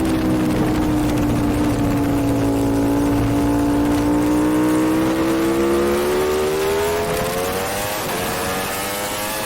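Superbike engine heard onboard. Its note sinks over the first two or three seconds as the bike slows, then climbs steadily as the bike accelerates.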